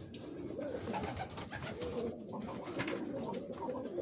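Several domestic pigeons cooing together in a loft, overlapping continuously.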